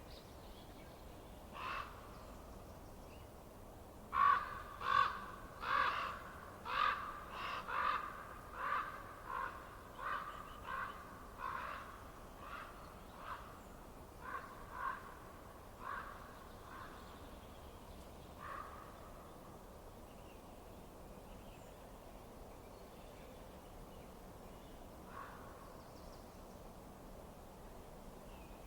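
A crow cawing: a run of about fifteen short, harsh caws roughly one a second that fade away, with a few single caws before and after. A faint steady hiss lies underneath.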